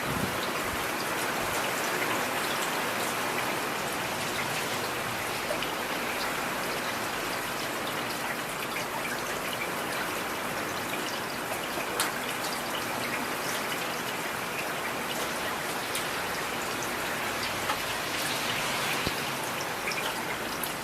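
Heavy rain falling steadily, a constant hiss dotted with sharper drop impacts, one louder hit about midway.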